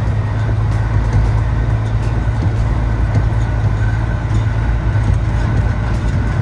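Dump truck's diesel engine running with a steady low drone.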